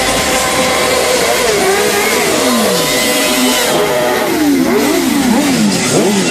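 Racing motorcycle engines revving up and down in quick sawtooth steps through gear changes, more than one at once, with a long falling sweep about two seconds in, over a steady hiss.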